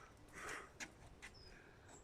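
Faint bird chirps: two brief high notes, with a soft rustle about half a second in and a few light clicks.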